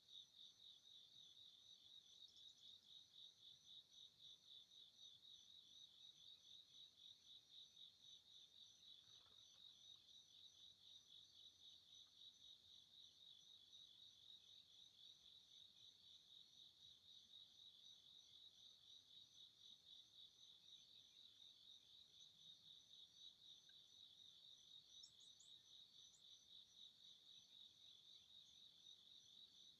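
Crickets chirping faintly in a steady, fast-pulsing trill, with a few brief high chirps near the end.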